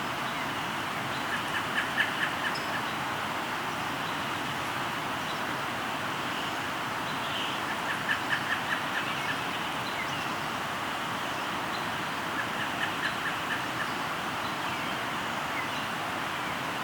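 Steady rush of a flowing river, with a bird repeatedly giving a quick series of six or seven short notes, about five a second, three times over.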